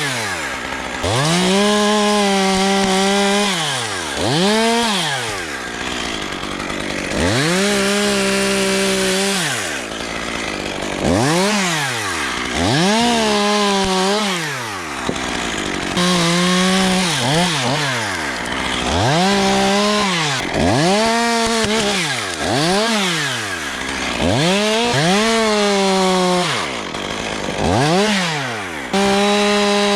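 Chainsaw revved up to full speed and let back down over and over, more than a dozen times. Each time it is held at full throttle for a second or two, as in a run of short cuts.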